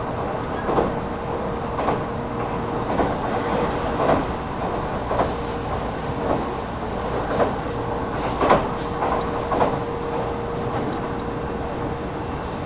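Running sound inside a JR 313 series 0-subseries electric train (motor car KuMoHa 313-4): a steady rumble of wheels on rail, with sharp clacks about once a second from rail joints that thin out near the end. A faint steady hum runs underneath.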